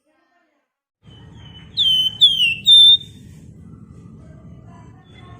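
After about a second of silence, a flamboyan songbird gives a quick run of four or five high whistled notes, each sliding downward, the last one held level. Fainter, lower notes follow over a steady low background hum.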